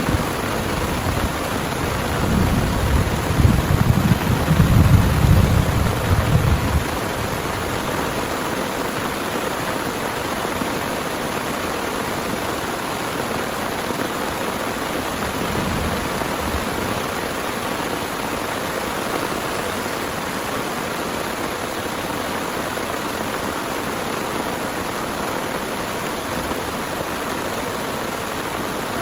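Heavy rain falling steadily, with a low rumble of thunder in the first few seconds that cuts off abruptly about seven seconds in.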